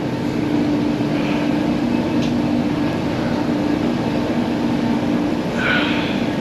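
Steady machinery drone aboard a lake freighter, a constant low hum with an even noisy rumble beneath it.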